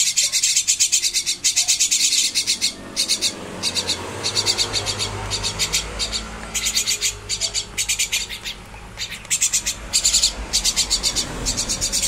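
Two hand-fed fledgling birds giving rapid, repeated shrill begging calls with their beaks gaping for food, broken by a few short pauses.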